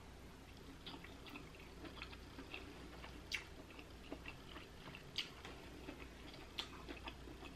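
Quiet chewing of sauce-coated seafood, with a few faint wet mouth clicks and smacks scattered through, the clearest about three and five seconds in.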